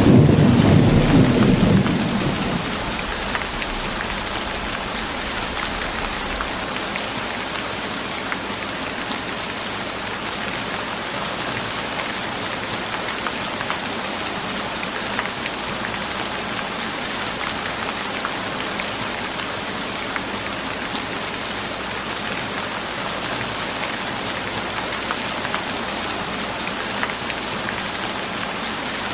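Steady rain falling on a surface, with scattered drop ticks. A low rumble of thunder fades out in the first couple of seconds.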